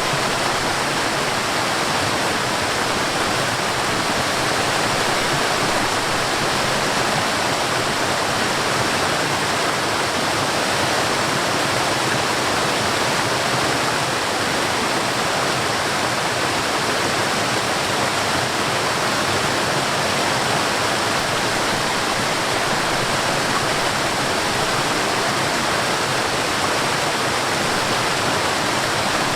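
Water of a mountain stream rushing steadily over waterfalls: a dense, even hiss of falling water that does not let up.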